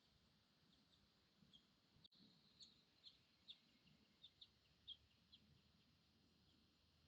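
Faint bird chirping: a loose run of about a dozen short, high chips, each slurring down, over a few seconds in the middle, the loudest about five seconds in.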